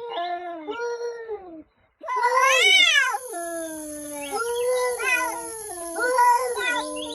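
A domestic cat meowing in a run of drawn-out, wavering calls, the pitch bending up and down like talk. After a brief break about two seconds in comes a loud call that rises and then falls, followed by a string of shorter complaining meows.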